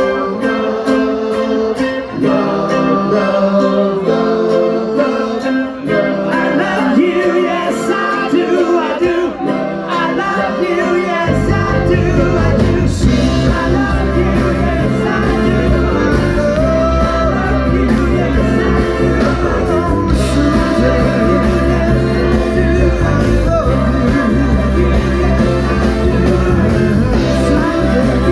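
Live pop-rock band playing a song with singing; bass and drums come in about eleven seconds in and the full band carries on from there.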